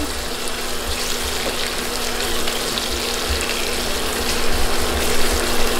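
Sliced onions, cumin and fenugreek seeds and ginger-garlic paste sizzling steadily as they fry in hot oil in a pot, with a steady low hum underneath.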